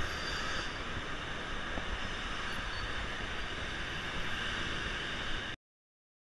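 Steady rushing road and wind noise of a bicycle ride along a road with car traffic, heard from a handlebar-mounted camera. It cuts off abruptly to silence about five and a half seconds in.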